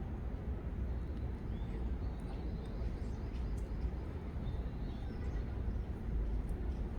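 Outdoor ambience: a steady low rumble with a few faint, brief bird chirps over it.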